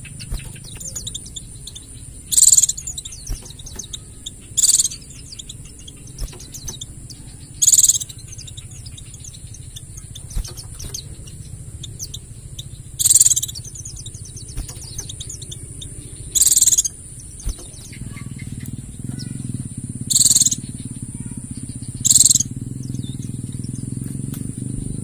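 White-eye (pleci) twittering continuously in fast, thin high notes. Loud, sharp high-pitched bursts break in seven times, every two to five seconds. A low hum underneath grows louder about three quarters of the way through.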